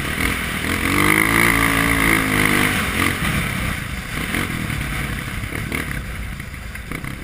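Honda CRF230 dirt bike's single-cylinder four-stroke engine revving up and back down, then running at lower revs and fading away.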